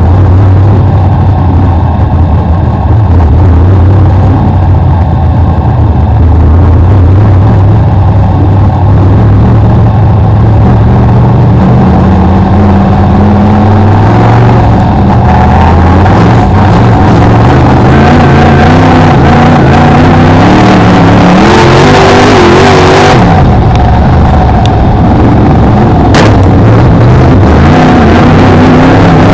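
BriscaF1 stock car's V8 engine heard on board, loud enough to overload the microphone. It runs at a low, steady pitch for about twelve seconds, then revs up, its pitch rising and falling as the car accelerates and lifts through the bends. A single sharp knock near the end.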